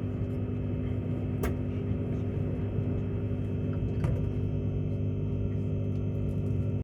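Steady low drone inside a passenger car of the Tilt Train, a hum with several fixed low tones over a rumble, with two light clicks. It cuts off abruptly at the end.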